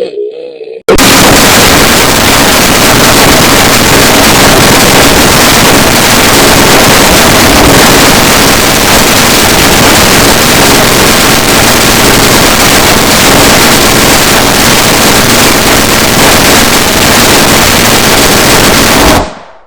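Harsh, extremely loud distorted noise, clipped at full level and even across all pitches. It bursts in abruptly about a second in, after a brief pitched call, and runs steadily until it fades out just before the end.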